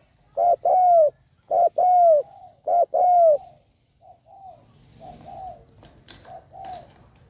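Spotted dove cooing: three loud two-note phrases, each a short note followed by a longer, arching note. From about four seconds in, fainter and shorter coos follow.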